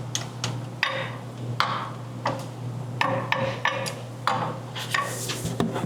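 Irregular metallic clicks and knocks of a wrench working on the tight front differential fill plug, about one every half second, over a steady low hum.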